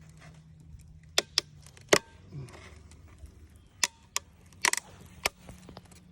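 A run of sharp wooden taps and knocks, about seven scattered over a few seconds, as a bee package and hive parts are handled, over a low steady hum.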